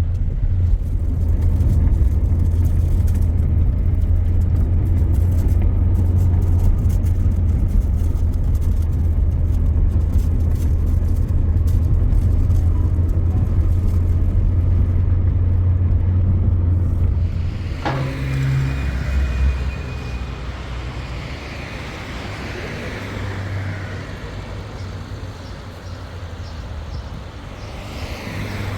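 Motor vehicle running with a steady low drone, heard from close by. About two-thirds of the way in there is a sharp click and the drone stops, leaving a quieter steady hiss.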